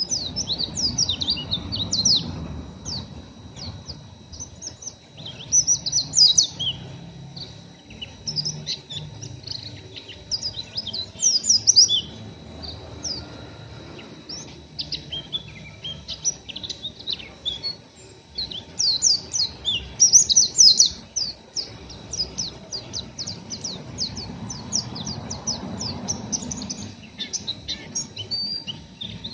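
Pleci (white-eye) twittering in quick runs of high, sliding chirps that come in bursts. This is the rough twitter ('ngeriwik kasar') of a still-untrained 'bahan' bird.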